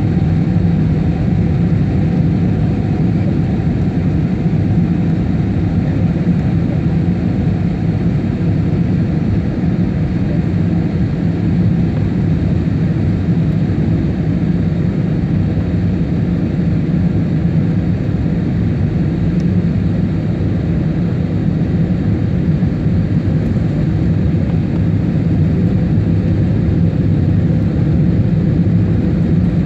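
Steady jet engine and airflow noise inside the cabin of an Airbus A320-family airliner, a low, even rumble with a faint steady tone above it.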